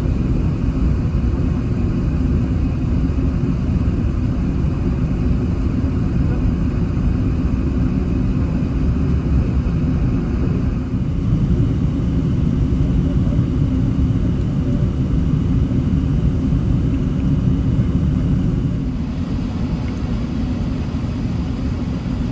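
Steady low rumble of engine and airflow noise inside the cabin of an Airbus A380 in flight, easing slightly about nineteen seconds in.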